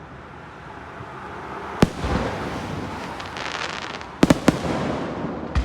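Fireworks display going off: a sharp bang a little under two seconds in, a spell of crackling, then a quick cluster of three bangs just past four seconds and another bang near the end.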